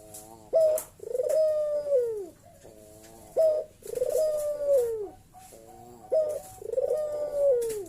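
Local puter (barbary / ringneck dove) calling its bekur coo three times in a steady rhythm. Each call is a short rolling note and a quick upward note, then a long arched coo that falls away at its end.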